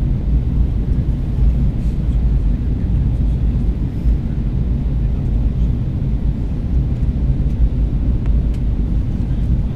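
Steady low rumble inside the passenger cabin of an Airbus A320 in descent: engine and airflow noise.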